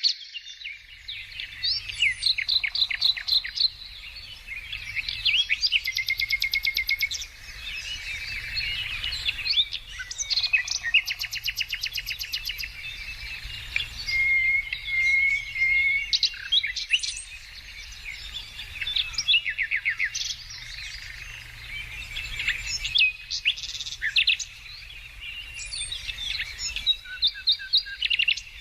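Several birds singing at once: overlapping songs of fast trills, rapid runs of repeated notes and short chirps, with a faint low rumble beneath.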